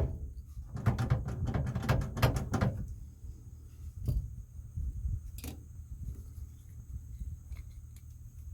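Hand tools at work on the truck: a sharp click, then a fast run of clicks and metal rattles lasting about two seconds, followed by a few separate clicks and knocks.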